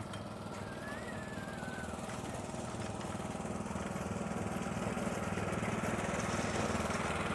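Tractor engine running steadily, its low rumble growing gradually louder.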